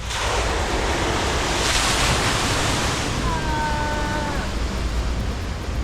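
Wave machine in an aquarium exhibit sending a surge of seawater crashing into the tank. The rush of water starts suddenly, is loudest about two seconds in, then keeps washing on. A short high squeal is heard about three seconds in.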